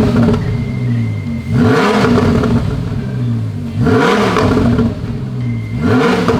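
Lamborghini Huracán LP610-4's naturally aspirated V10 revved in free-revving blips: the engine note sweeps up and falls back about every two seconds, three times, after the tail of an earlier blip at the start.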